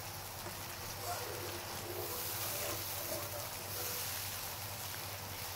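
Onion and yogurt masala sizzling steadily in a wok as it fries and is stirred with a slotted spatula.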